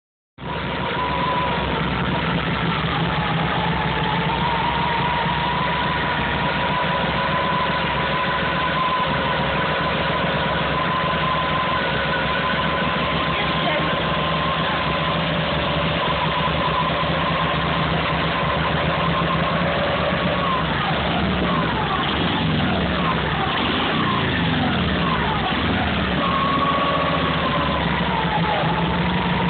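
Racing Morgan three-wheeler's 1290cc JAP 8/80 V-twin engine, on twin Amal GP carburettors and methanol, running steadily at a fast idle, then revved up and down several times in the last third.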